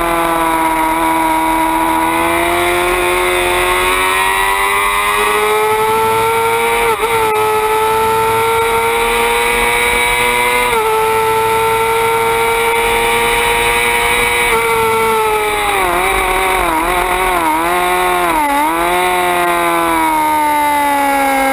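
Suzuki GSX-R 600 inline-four engine running at high revs under race load, its pitch climbing steadily with quick gear shifts about seven and eleven seconds in. Near the end the pitch dips and rises several times, then falls as the bike slows.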